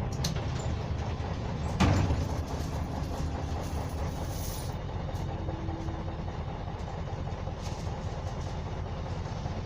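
Low, steady running of a MAZ 104 city bus's YaMZ-236M2 V6 diesel heard from inside the cabin, with a single loud knock about two seconds in and a short hiss of air a couple of seconds later.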